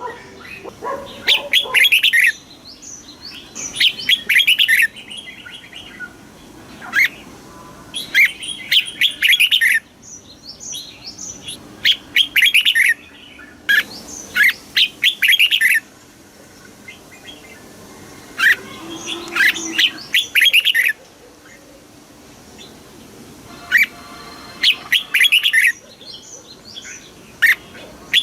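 Red-whiskered bulbul singing: loud, short whistled song phrases of about a second or two each, repeated about eight times with pauses between them.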